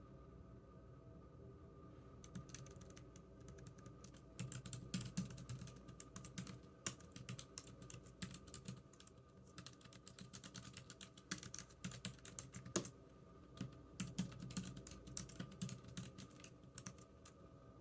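Typing on a computer keyboard: quick runs of key clicks in uneven bursts with short pauses, starting about two seconds in.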